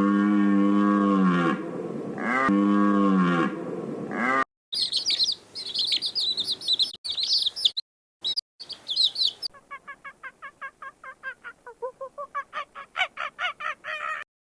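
A series of edited-together animal calls: two long pitched calls with a drop at the end, then high bird chirping, then a fast run of short calls, about four or five a second, rising in pitch.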